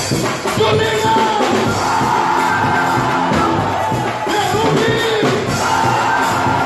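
Quadrilha junina performance music: a band playing with a lead singer over a steady beat.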